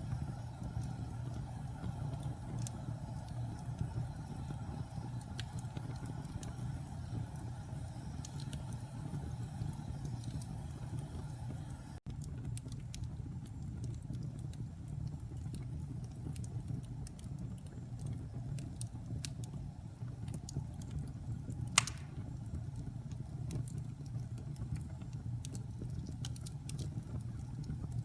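Wood fire burning in a fireplace: a steady low rumble with scattered small crackles, and one sharp, loud pop about three-quarters of the way through.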